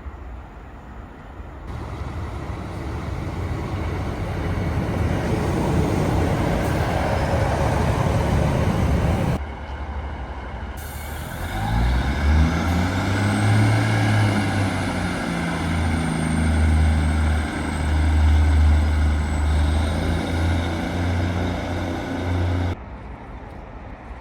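Diesel train at a station platform: a rushing noise builds as the train moves, then the diesel engine revs up, its low note rising and holding, with a faint high whine gliding above it.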